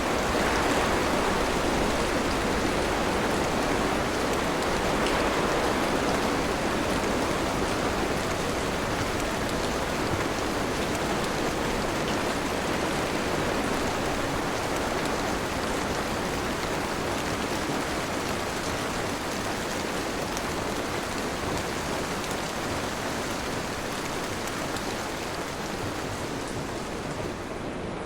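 Steady rain falling as an even wash of noise, with no thunder claps, easing slightly toward the end.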